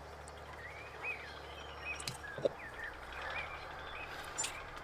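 Birds chirping in short whistled calls that slide up and down, over a steady low background hum, with a few light clicks.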